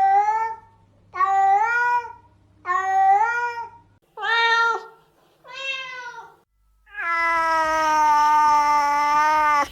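Domestic cats meowing: three short meows about a second and a half apart, then two shorter meows, then one long, drawn-out meow lasting nearly three seconds near the end.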